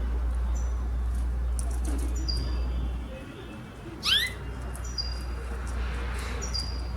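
Pet canary giving short high chirps every second or two, with one louder, quickly rising call about four seconds in, over a steady low hum.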